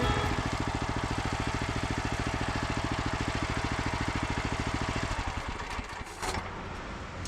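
Log splitter's small gas engine idling with a steady, even firing pulse, fading away about five and a half seconds in.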